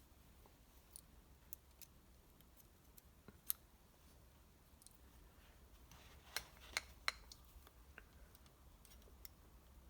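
Faint metallic clicks and ticks of a piston ring being spread and fitted onto a piston with ring installation pliers, with one sharper click about three and a half seconds in and three more close together around six to seven seconds in.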